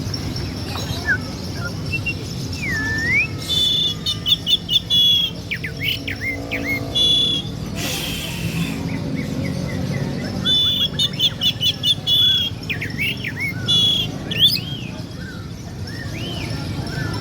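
Songbird singing a rapid-fire song of varied, imitated phrases. Short whistles and gliding notes are broken by two long runs of fast repeated high notes, one a few seconds in and another about halfway through.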